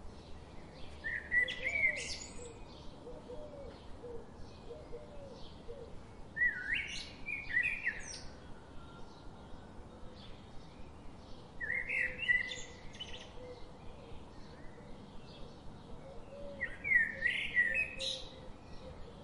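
Birdsong: a bird sings a short warbled phrase of sweeping high notes four times, about five seconds apart, over faint, regular chirping.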